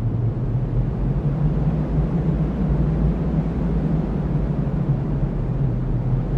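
Cyclone wind blowing in a steady, deep rumble, with a low moaning note that wavers and little high hiss.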